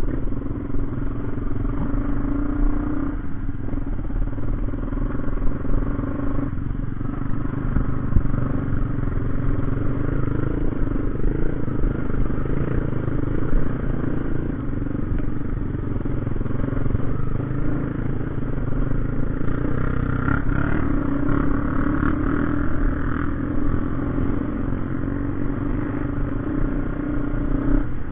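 Motorcycle engine running steadily through a long stretch, a continuous hum with no clear changes in speed.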